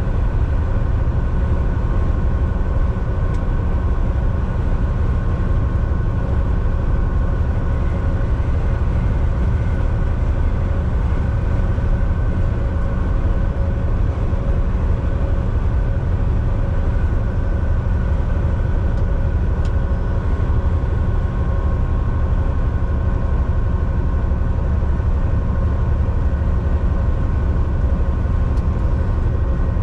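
Volvo VNL 760 semi truck driving steadily at highway speed, heard from inside the cab: a constant low engine and road rumble with a faint steady whine.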